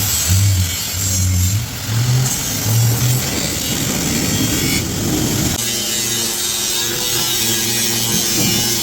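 Workshop power tool noise: rough, uneven mechanical noise at first, then a steady electric motor hum that sets in about five and a half seconds in.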